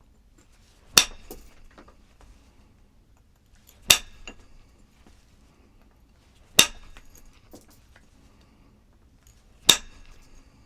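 Four sharp clinking knocks of hard objects striking each other, about three seconds apart, each followed by a few light ticks.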